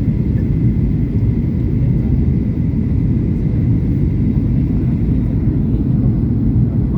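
Steady airliner cabin noise in flight: a constant low drone of engines and airflow, with a faint steady whine above it.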